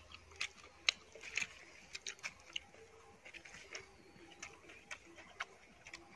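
Roasted chicken being torn off a bamboo spit and chewed: irregular sharp crackles and crunches, a few a second.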